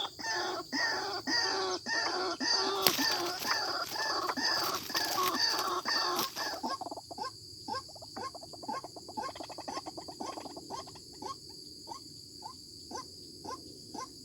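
White-breasted waterhen calling: a run of evenly repeated notes, about two a second. About six and a half seconds in, the notes turn fainter and shorter. There is a single sharp click about three seconds in.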